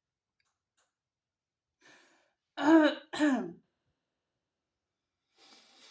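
A woman coughing twice in quick succession, about two and a half seconds in, with a faint breath before it and another near the end.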